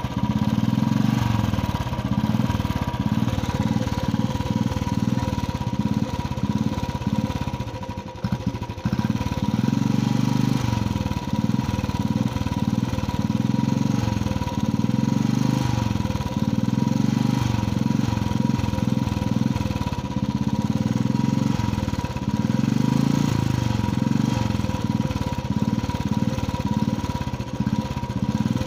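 Royal Enfield Bullet's single-cylinder engine running and being revved, its level swelling and easing, with a brief drop about eight seconds in.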